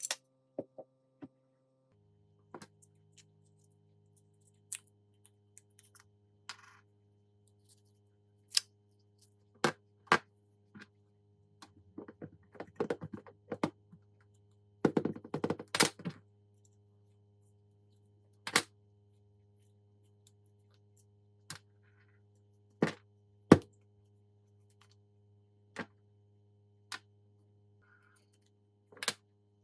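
Scattered clicks and knocks of metal tool parts being handled and set down, with two short bursts of rapid rattling near the middle and one sharp knock in the second half, over a soft steady music drone.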